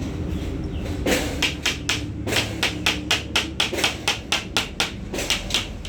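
A quick run of sharp hammer-like taps, about four a second, starting about a second in and stopping near the end.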